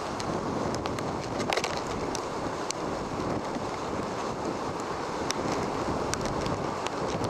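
Steady rush of storm wind and heavy surf, with frequent sharp ticks scattered through it.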